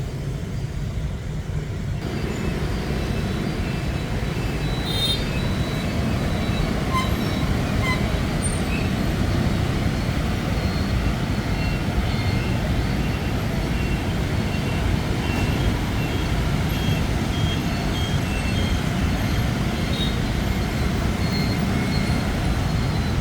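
Dense street traffic, mostly motorbikes, running steadily past, with short horn beeps scattered through.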